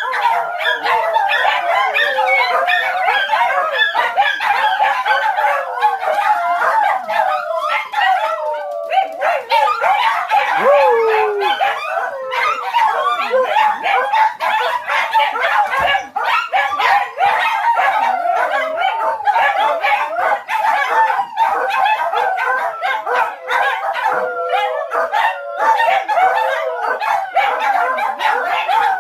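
Dogs howling and yipping without a break, several wavering voices overlapping at once.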